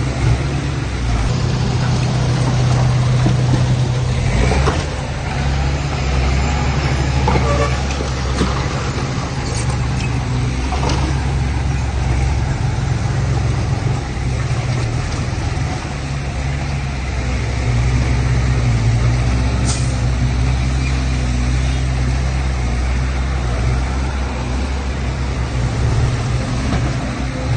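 Heavy diesel engine running steadily under load, with a few short knocks.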